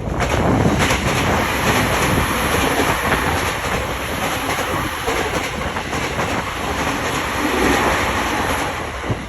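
Sotetsu 10000 series electric train passing close by at speed: a steady rumble of wheels on rails with clacks over the rail joints.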